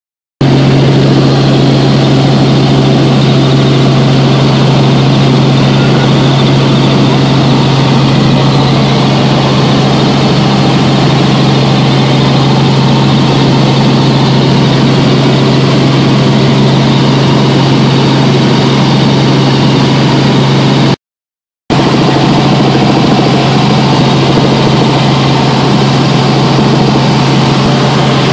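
Helicopter in flight, heard from inside the cabin: a loud, steady drone of engine and rotor with a strong low hum. It drops out for under a second about 21 seconds in.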